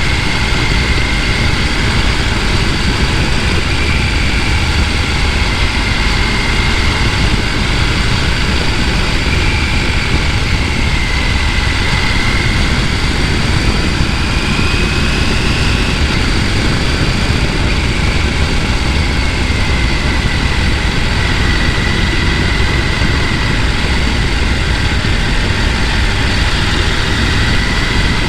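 Mountain stream rushing over rocks: a loud, unbroken rush of water.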